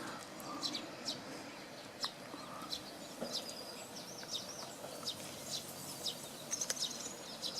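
Small birds chirping: a steady scatter of short, high notes, several a second, over a faint even background hiss.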